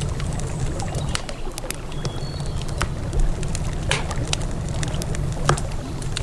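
Wood campfire crackling with many irregular sharp pops, some louder ones about four and five and a half seconds in, over the steady low rush of river water.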